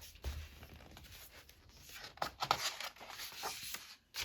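Pages of a colouring book being turned: paper rustling, with a few sharper flicks about two seconds in.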